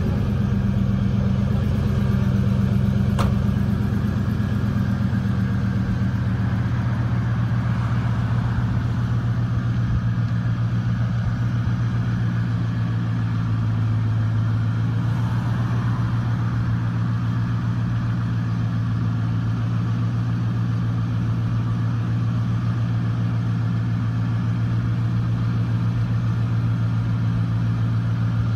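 1999 Ford F-150 engine, at 282,000 miles, idling steadily after startup, with a single brief click about three seconds in.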